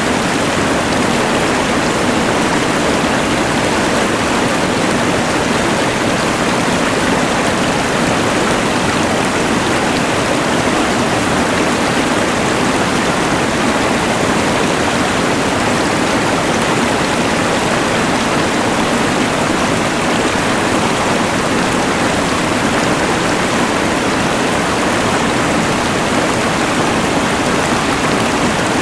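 Rushing mountain river water mixed with the hiss of a LectroFan white noise machine, making a steady, unbroken wash of noise.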